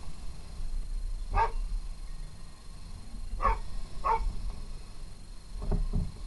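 A dog barking: three short barks, the last two close together, over a low steady rumble.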